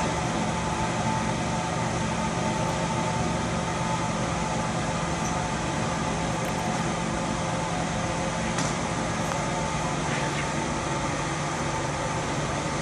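Steady mechanical hum over an even hiss, with a faint tick or two in the second half.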